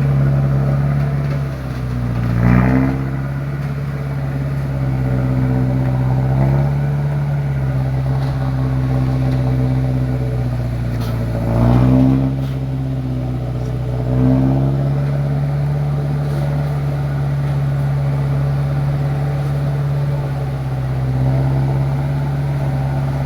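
A loaded truck's engine pulling hard and steadily up a steep rocky climb. Its revs rise and fall a few times, most sharply twice, about two and a half and twelve seconds in.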